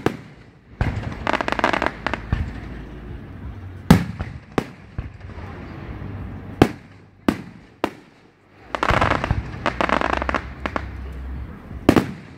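Aerial firework shells bursting with sharp bangs, about seven through the stretch, the loudest near the start and about four seconds in. Between the bangs come two runs of rapid crackling, one about a second in and a longer one around nine seconds.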